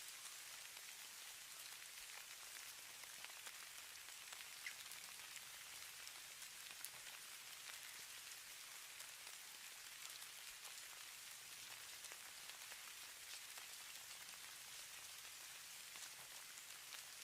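Falling snow: a faint, steady hiss with many tiny ticks of the snow landing.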